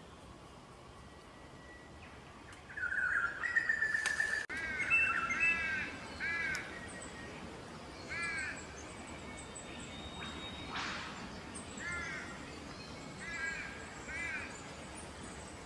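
Bird calls: one drawn-out call about three seconds in, then a string of short, arched, harsh-sounding calls, some in pairs, repeated every second or so.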